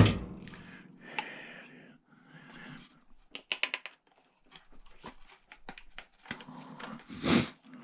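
Scattered small clicks and taps of hand tools on metal and plastic as a cash register is taken apart, with a quick run of clicks about halfway through and a louder knock near the end.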